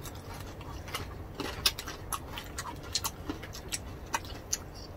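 Close-miked eating sounds: chewing with irregular soft clicks and smacks of the mouth.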